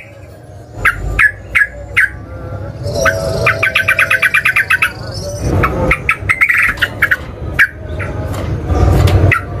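Yellow-vented bulbul (trucukan) song: a few short separate chirps, then about two seconds in a rapid even run of notes, roughly nine a second (the 'ropel'), followed by more quick chirping.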